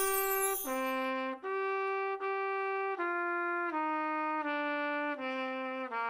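Wind instruments, brass-sounding, playing a slow melody in harmony: a string of held notes in two parts, changing about every three quarters of a second.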